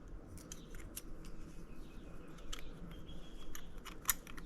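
Light, irregular clicks and ticks of small metal transmission parts (synchro assembly) being handled, with a sharper click about four seconds in.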